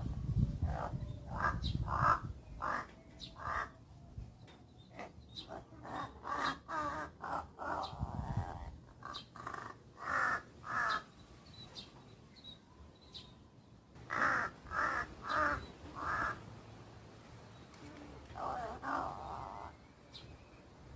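Crows cawing: several bouts of short, repeated caws with brief pauses between the bouts.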